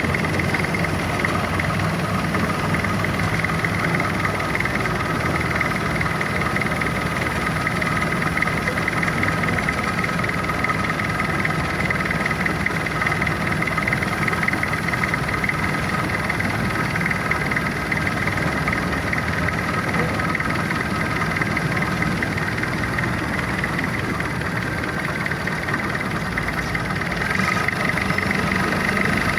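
Boat engine running steadily under way, getting a little louder near the end.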